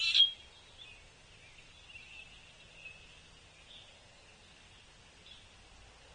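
Birds calling: one loud, sharp call right at the start, then faint, scattered high calls through the rest.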